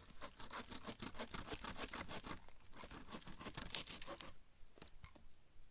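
Hand saw cutting through a log in rapid, even back-and-forth strokes, taking the rotted end off. The strokes stop about four seconds in.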